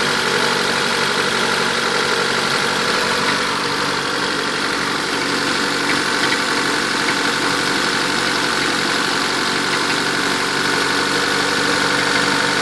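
Turbocharged Honda D16Z6 1.6-litre four-cylinder engine idling steadily. It has bad blowby, which the owner puts down to worn piston rings.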